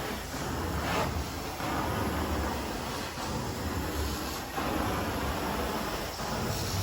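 Carpet-cleaning extraction vacuum running with a steady hiss over a low hum, swelling and easing every second or two as the cleaning wand is worked across the carpet.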